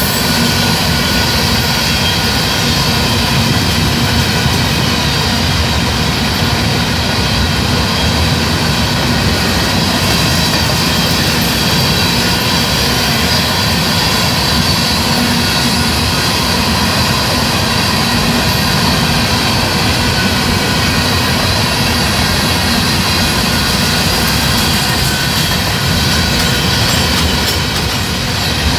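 Freight train rolling past: a steady rumble of wheels on rail, with high steady tones running over it.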